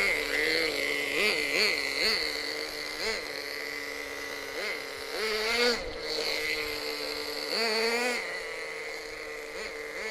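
Small nitro glow engine of a CEN MG16 1/16-scale monster truck idling steadily, blipped up in short throttle bursts, with two longer revs around the middle and near eight seconds in. The idle is a little low, which the owner judges needs turning up a tad.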